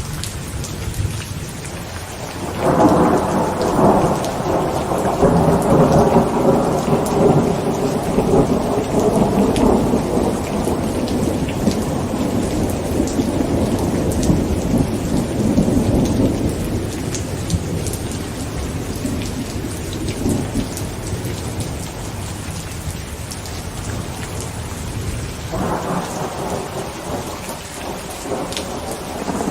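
Heavy rain falling on a tent, with a long rumble of thunder that swells about three seconds in and fades away over the next fifteen seconds; another rumble begins near the end.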